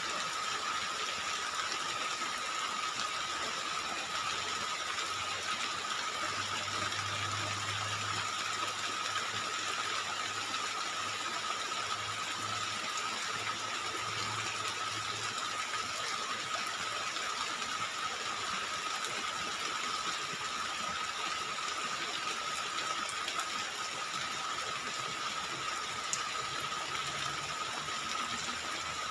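Heavy rain falling as a steady, even hiss, with a constant high-pitched whine running through it.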